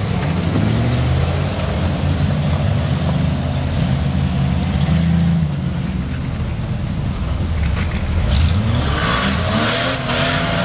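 A car engine running hard under load, its pitch climbing and dropping as the revs change. About nine seconds in, a wavering higher tone and a hiss rise over it.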